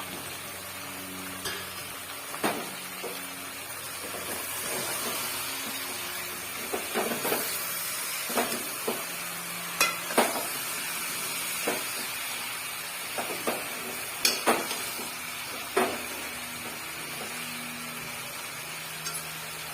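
Chicken frying in a pan of hot oil, sizzling steadily, while it is stirred with the freshly added ground spice powder. A spoon knocks against the pan at irregular moments, every second or two.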